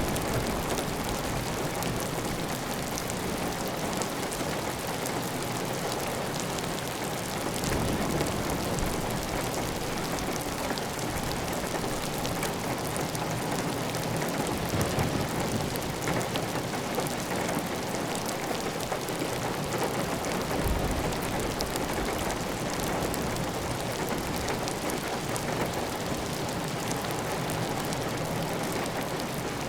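Steady heavy rain on a clay tile roof, with water running off the roof edge. A few brief low rumbles swell under it, about eight and twenty seconds in.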